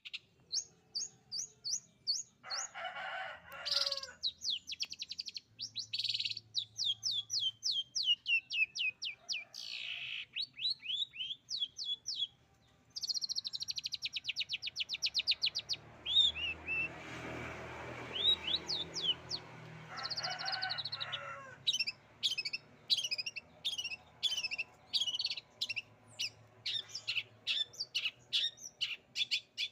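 Caged long-tailed shrike singing non-stop, pouring out fast trills and rapid strings of sharp high notes that imitate canary song.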